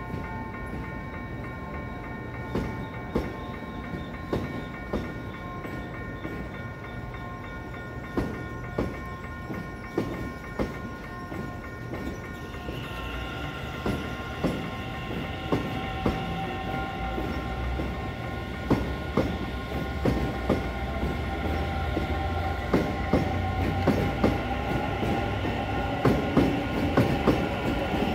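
Train passing over a level crossing, its wheels clacking over the rail joints, the clacks getting louder and closer together toward the end. Steady high tones run throughout, with more joining about halfway.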